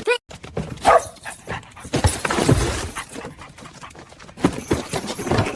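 A dog's excited vocal sounds: a short, high, pitched yelp about a second in, then bursts of noisy, scuffling sound.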